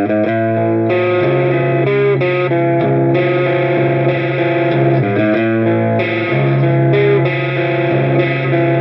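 Electric guitar played through an Olinthus Cicada overdrive pedal: distorted chords that ring out and change about every second or so.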